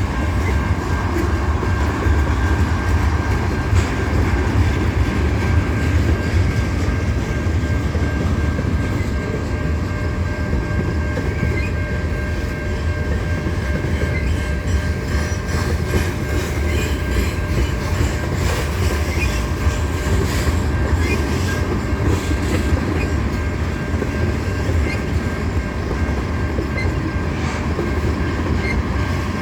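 Freight train cars rolling past at low speed with a steady low rumble, the wheels clacking over rail joints.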